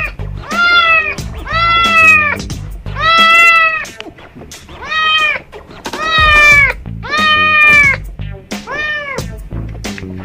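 A kitten meowing over and over, about one high meow a second, each call rising and then falling in pitch.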